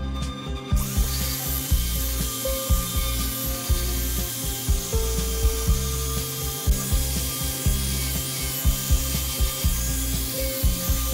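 Electric angle grinder with an abrasive disc sanding a wooden vase: a steady motor hum under a dense scraping hiss of the disc on the wood, which comes in sharply about a second in and holds.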